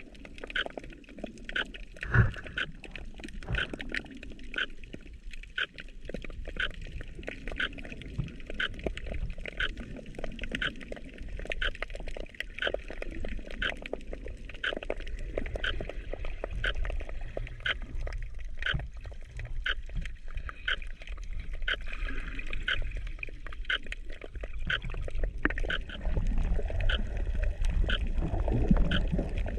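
Underwater sound picked up through a GoPro's waterproof housing: muffled water movement with a low rumble and a regular run of short clicks, the sloshing growing louder in the last few seconds.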